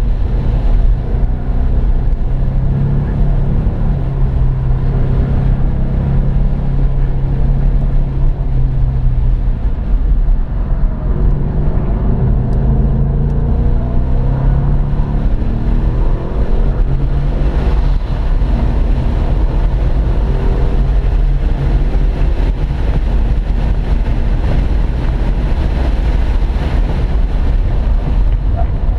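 2015 Mustang GT's 5.0-litre V8 engine heard from inside the cabin while lapping a race track, with heavy road and tyre noise. It holds fairly steady revs for the first ten seconds or so, then climbs in pitch as the car accelerates.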